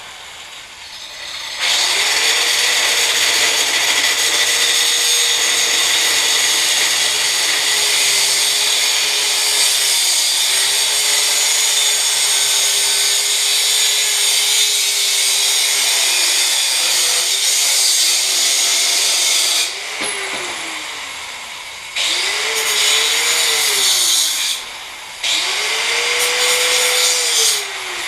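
A small electric motor whirring loudly with a whining tone, spinning up and running steadily for about eighteen seconds, then winding down. It runs up and down twice more in shorter bursts near the end.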